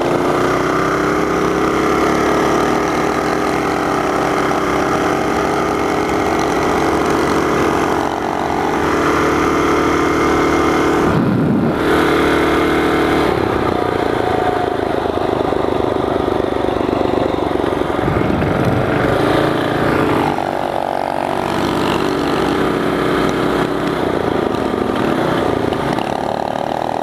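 Small single-cylinder mini bike engines running at high revs under full throttle, held fairly steady with the pitch dipping and climbing back a couple of times.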